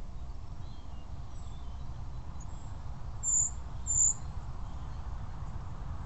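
Two short, very high-pitched bird chirps about a second apart, with fainter high calls before them, over a steady low rumble.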